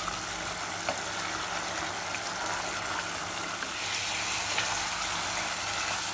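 Mutton and tomatoes sizzling and bubbling in a nonstick pot on a high flame as the cooking liquid boils off, stirred with a spatula that now and then clicks lightly on the pot. The sizzle grows a little louder in the second half.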